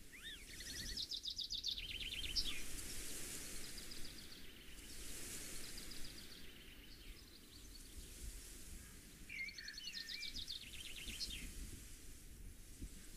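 Songbirds singing faintly: short phrases of rapid chirps and trills that come back several times, over a steady hiss.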